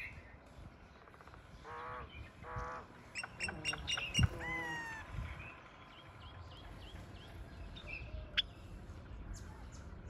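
Small birds chirping and calling: two short pitched calls about two seconds in, then a quick run of sharp chirps and a falling whistle, with a single thump about four seconds in and scattered faint chirps after.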